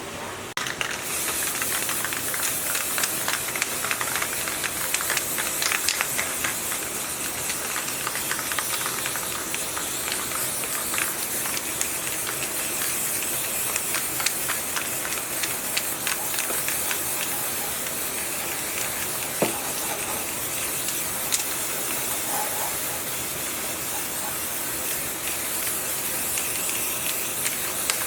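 A steady hiss of something spraying under pressure, starting abruptly about a second in, with scattered small ticks through it.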